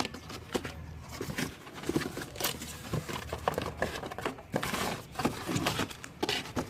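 Irregular clicks, taps and rustling of tools and parts being handled, over a faint steady low hum.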